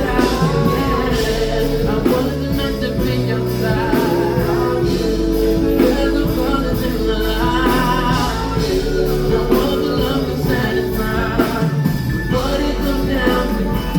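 Live band playing a slow soul ballad with a sung vocal line over it, the singer's voice wavering through held notes.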